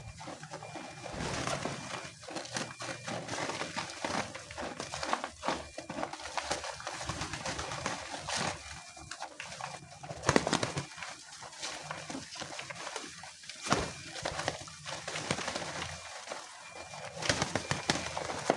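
A flock of homing pigeons cooing, with many scattered sharp clicks and taps.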